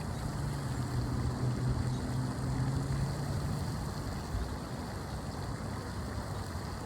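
Steady low drone of a distant motor engine that fades about three seconds in, over a rough low rumble of wind on the microphone.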